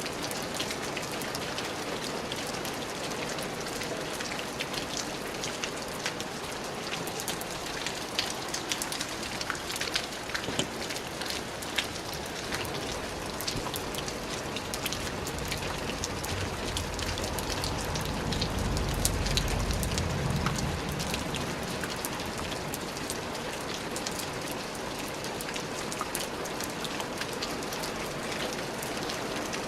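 Steady rain falling, with many individual drops striking close by. A low rumble swells and fades in the middle.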